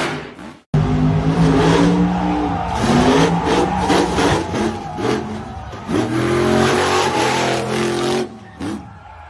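Monster truck engine revving hard, its pitch rising and falling repeatedly. The sound cuts off abruptly just under a second in and starts again at full loudness.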